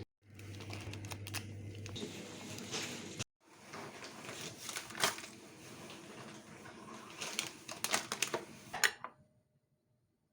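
Scattered clicks and light rustling of small objects being handled in a small room, over a low hum. The sound cuts out abruptly twice, and a flurry of sharper clicks near the end stops suddenly.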